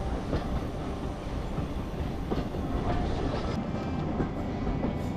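Carriages of a heritage steam train running along the track, heard from an open carriage window: a steady rumble of wheels on rail with a few sharp clicks from the rail joints.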